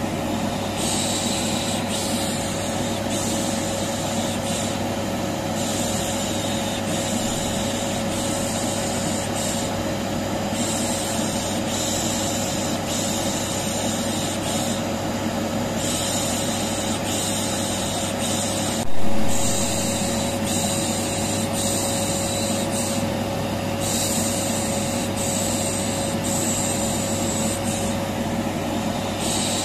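Vacuum cleaner running steadily with a steady hum, overlaid with a continuous 'shh shh' shushing hiss used to calm a colicky baby. A single short knock is heard about two-thirds of the way through.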